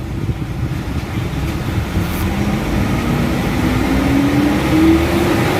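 Nissan pickup engine revving, the pitch climbing slowly and lazily toward about 3,000 rpm: throttle delay, which the mechanic puts down to injectors spraying unevenly.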